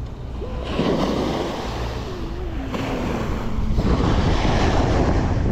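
Wind buffeting the microphone over the wash of sea water, growing louder about four seconds in.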